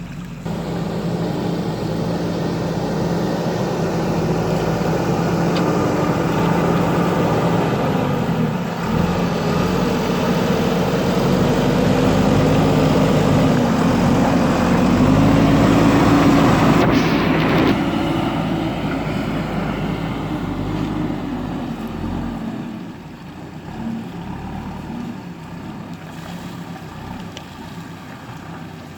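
Diesel engine of a JCB backhoe loader working. It revs up under load to its loudest about halfway through, then drops back and settles to a lower, quieter run toward the end.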